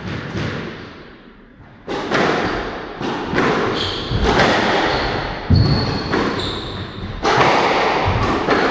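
A squash rally: the ball is struck by racquets and smacks off the court walls in repeated sharp cracks about every second or two, with rubber-soled shoes squeaking on the court floor in short high squeaks.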